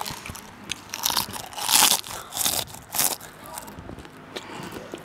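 A crunchy snack bitten and chewed right up against a clip-on microphone: a few loud crunches in the first three seconds, the loudest about two seconds in.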